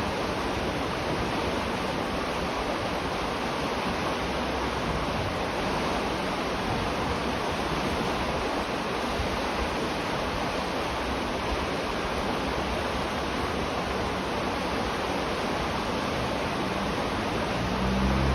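River water rushing steadily, with no break in the sound, heard from beneath a bridge. About a second before the end a low rumble builds under the water sound.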